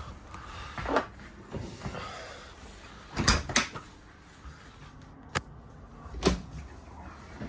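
RV cabinet doors being opened and shut: a handful of separate knocks and clicks of doors and latches.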